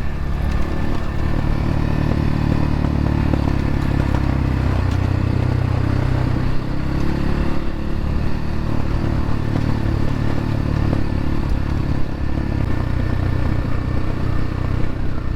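X-Pro Templar X 250 dirt bike's single-cylinder engine running steadily while riding along a dirt trail.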